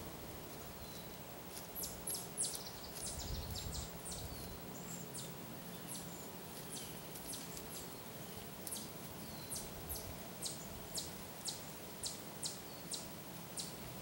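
A small songbird calling with short, high chips that sweep downward. They come in a quick flurry about two seconds in, then settle into a steady series of about two a second in the second half. Faint low thuds sound now and then underneath.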